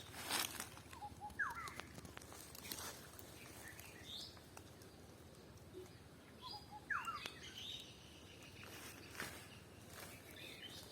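Birds chirping, with a few short calls that sweep down in pitch, and a few scattered footsteps.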